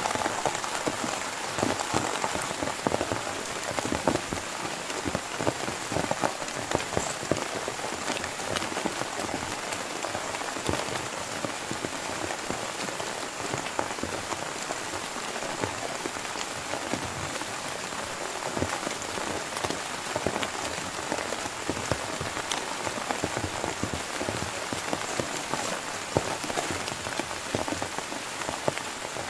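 Heavy rain falling steadily, with many separate drops striking a surface close by.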